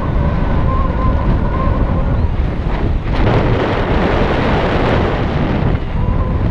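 Loud, steady wind noise buffeting the microphone of a pilot in flight.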